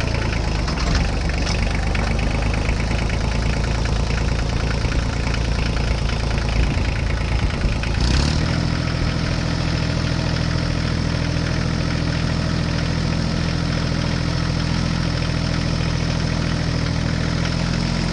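A vehicle engine idling steadily. About eight seconds in, its note shifts and settles into a smoother, even hum.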